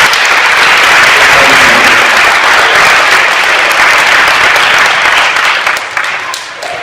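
An audience applauding, a dense, steady clapping that tapers off near the end.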